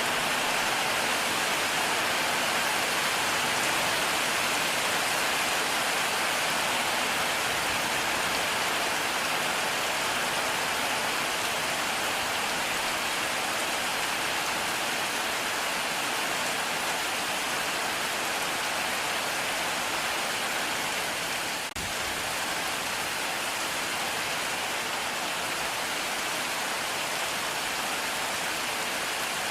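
Heavy rain falling steadily in a dense, even hiss, with one momentary dip in level about three-quarters of the way through.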